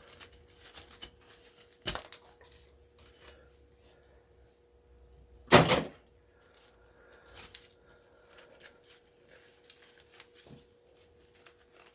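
Light clicks and knocks of scrap being handled, with one loud, sharp clack about halfway through, over a faint steady hum.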